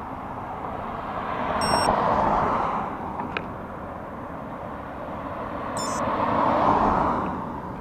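Ring-road traffic passing close by: two vehicles go past, one about 2 seconds in and another about 6.5 seconds in. Each passes as a swell of tyre and engine noise that rises and fades over a background of steady traffic.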